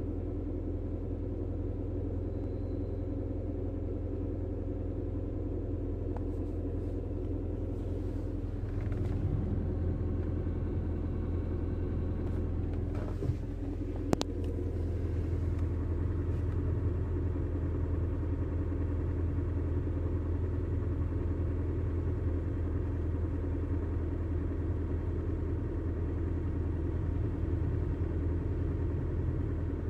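Honda D16 inline-four engine running steadily at about idle. Its note shifts and grows a little louder about nine seconds in, and two sharp clicks come at about thirteen and fourteen seconds. The owner calls this a weird noise from the engine.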